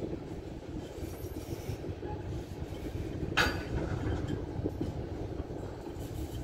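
Freight train of tank cars rolling past: steady low rumble of steel wheels on the rails, with one short sharp clank about three and a half seconds in.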